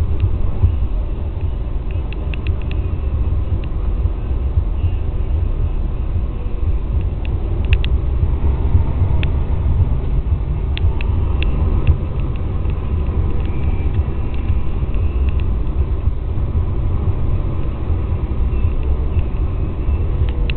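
Steady low rumble of a Power Wagon pickup truck driving on a snow-covered street, with a few scattered sharp clicks.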